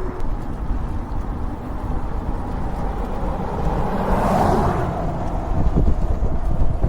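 Wind buffeting the microphone and the low rumble of a moving e-bike, with a passing car swelling up and fading away about four seconds in.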